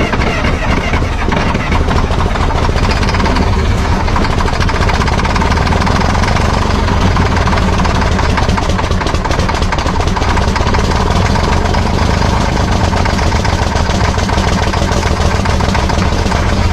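Old diesel engine running steadily just after catching on a shot of ether starting fluid.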